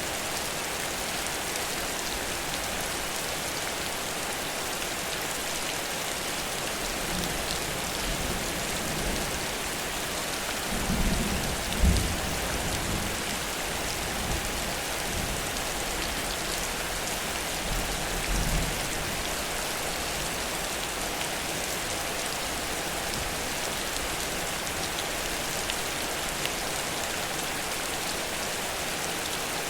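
Heavy rain pouring steadily, with low rumbles of thunder rising out of it, the loudest about eleven to twelve seconds in and a weaker one near eighteen seconds.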